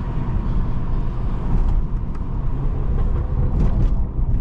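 Modified BMW 540i (aftermarket downpipe and catback exhaust) being driven: a steady low rumble of engine, exhaust and road noise with no clear revving.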